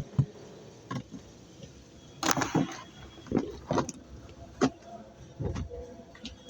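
Baskets and belongings being handled and set down: a string of irregular knocks and clatters, about eight in all, with a faint jingle among them.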